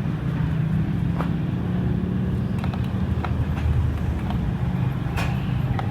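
Steady low motor-vehicle rumble, with a few light clicks and taps over it.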